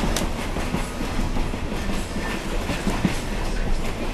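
Passenger railcar rolling along the track, heard from on board: a steady low rumble with scattered clicks and clacks of the wheels over the rails.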